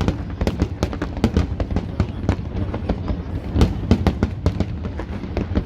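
Fireworks display: a rapid, irregular run of sharp bangs and crackles over a steady low rumble.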